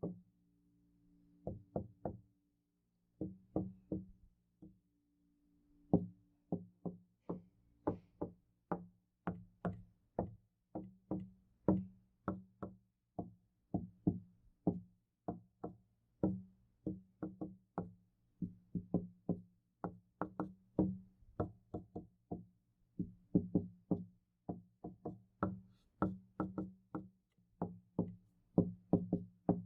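Knuckles knocking on a wooden door: many separate, hollow-sounding raps, a few scattered ones at first and then a long, fairly steady run of several knocks a second with brief pauses between groups.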